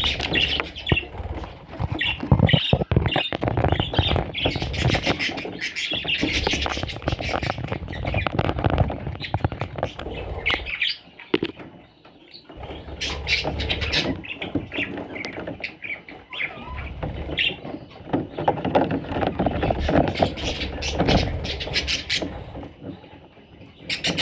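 Pet budgerigars chirping and chattering, with many clicks and scratching noises mixed in and a short lull about halfway through.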